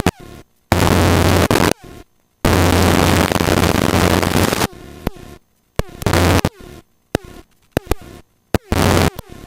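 Helicopter cockpit noise heard through the intercom: a steady rushing noise with a low drone that cuts in and out abruptly several times, as the intercom's voice-activated gate opens and closes.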